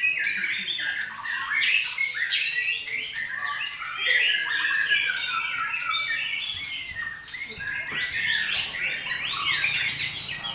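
White-rumped shamas (murai batu) singing, several at once: a dense, unbroken stream of overlapping fast whistles, trills and harsh squawking notes.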